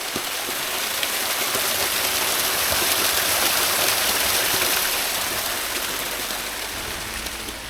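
Steady rushing water, like a stream or waterfall, that swells to its loudest in the middle and eases off near the end.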